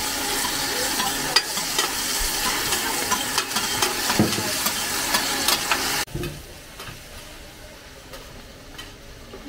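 Mussel-and-batter pancake (hoi tod) sizzling in oil on a large round flat pan, with a metal spatula scraping and clicking against the pan as the pieces are chopped and turned. About six seconds in it cuts off abruptly to a much quieter background.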